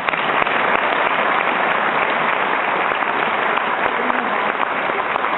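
Audience applauding, the clapping starting all at once and holding steady.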